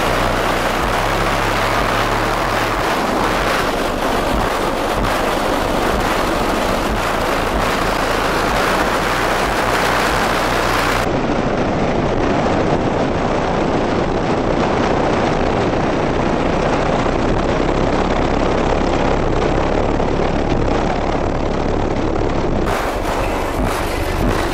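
Twelve Sundown SA-10 subwoofers on two DC Audio 3500 amplifiers playing loud, deep bass notes that step in pitch. Under them is a dense rough noise from the untreated truck body rattling and the microphone overloading.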